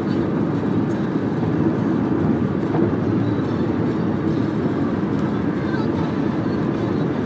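Steady road and engine noise inside the cabin of a moving Toyota Camry 2.4, an even low rumble.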